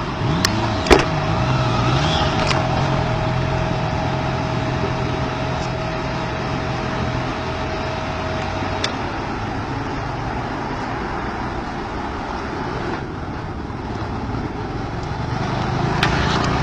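A vehicle engine running steadily, with a steady whine that stops about nine seconds in and a couple of sharp clicks about a second in.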